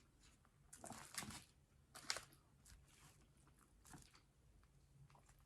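A person chewing food close to the microphone: short wet mouth clicks and smacks, the loudest in two clusters about one and two seconds in, then fainter chewing.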